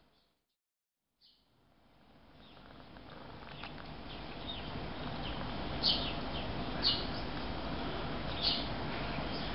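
Short high chirps, like small birds calling, a few times over a steady hiss; the clearest come about six, seven and eight and a half seconds in. The sound cuts out for about a second near the start and fades back in.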